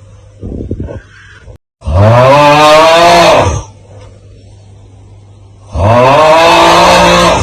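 The 'Aauuggh' meme sound: a man's long, strained yell whose pitch rises and then falls, heard twice, once about two seconds in and again near the end. A short burst of low grunting comes about half a second in.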